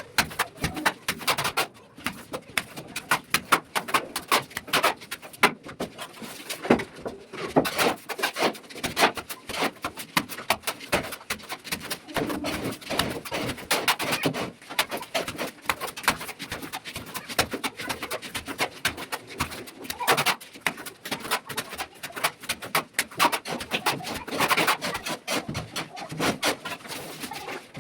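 Dense, rapid scraping and tapping of a plastering trowel working cement plaster onto a ceiling, with pigeons cooing now and then.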